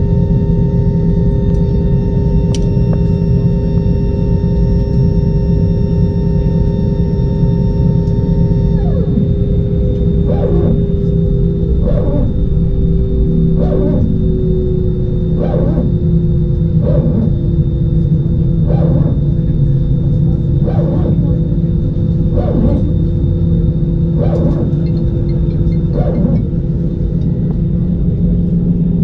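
Cabin of an Airbus A320-216 with CFM56 engines while taxiing: a loud, steady drone from the engines and cabin air, with several steady tones that step down slightly in pitch about nine seconds in. A regular series of about ten soft thumps follows, roughly one every second and a half to two seconds.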